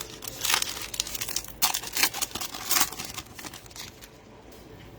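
Crinkling and tearing of a trading-card pack wrapper as a football-card pack is opened, in bursts over the first three seconds, then quiet handling.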